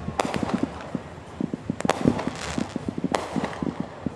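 Fireworks going off: a steady crackle of rapid small pops with three louder sharp bangs, about a second and a half apart.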